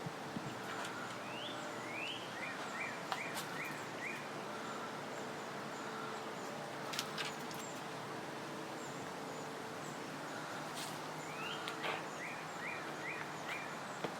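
A songbird calling twice, each call two quick rising notes followed by a fast run of about five short notes, over a steady outdoor background with a faint low hum and a few sharp clicks.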